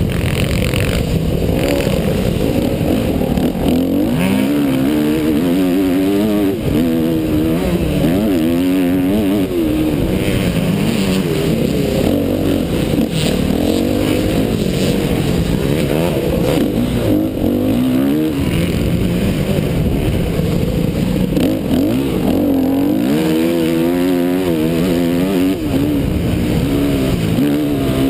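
Motocross dirt bike engine under hard riding: the engine note climbs and drops over and over as the throttle is opened and closed and gears change.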